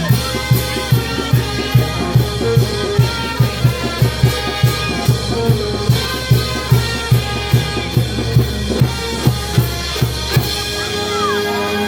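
Festival brass band playing, with bass drum and snare keeping a quick steady beat under held brass notes; the drumming stops shortly before the end.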